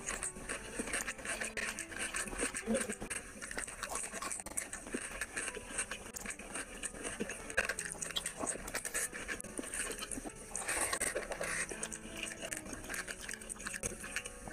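Close-miked wet chewing and lip-smacking of someone eating rice and curry by hand: a steady run of small sticky clicks and squelches, over faint background music.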